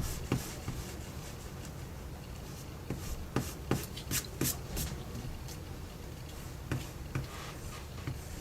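Scratchy strokes of drawing tools on paper, a cluster of several quick strokes about three to five seconds in and a couple more near the end.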